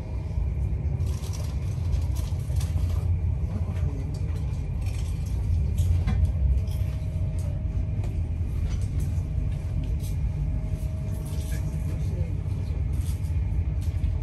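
Passenger train running at speed, heard from inside the carriage: a steady low rumble of the wheels on the track with a faint hum, and light rattles and clicks scattered throughout.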